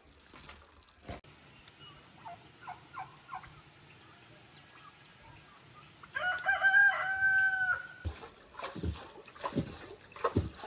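A rooster crowing once, about six seconds in, one long call held for nearly two seconds, with a few short clucks before it. Near the end come a few dull knocks.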